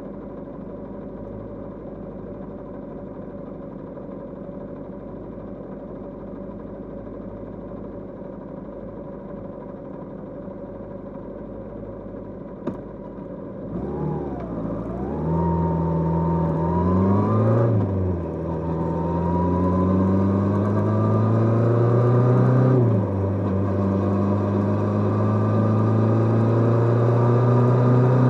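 Kawasaki GPz550's air-cooled inline-four motorcycle engine idling steadily, a click about halfway, then pulling away and accelerating: the pitch climbs, falls sharply at gear changes about 18 and 23 seconds in, and climbs again.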